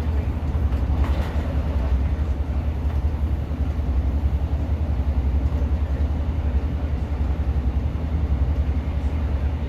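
Steady low rumble of a Class 150 diesel multiple unit heard from inside the carriage: its underfloor diesel engine and running gear moving along the track.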